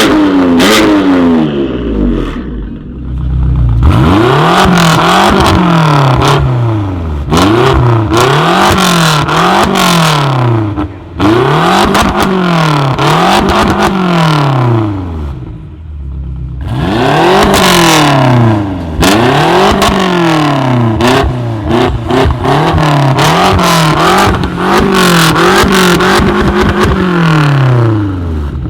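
Tuned car engine revved hard over and over, each rev climbing and falling back about once a second, with short pauses between bursts of revving. Exhaust crackles come through as the revs drop.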